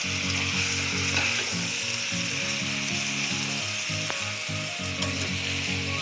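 Marinated chicken sizzling steadily as it fries in oil with masala in a pan, with low tones under the sizzle that change in steps.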